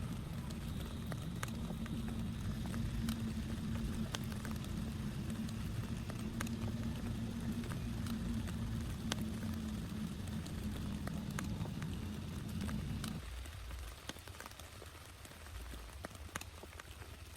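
Rain falling, with scattered raindrops ticking sharply, over a steady low rumble that cuts off abruptly about thirteen seconds in.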